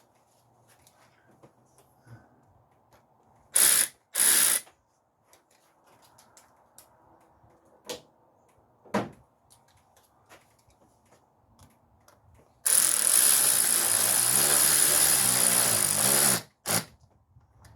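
Power tool run in short bursts: two brief runs a few seconds in, a couple of clicks, then one run of about four seconds with a wavering pitch and a last short blip.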